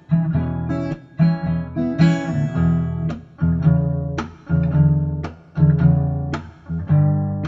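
Acoustic guitar strummed, with a chord struck roughly once a second and each one ringing out and fading before the next.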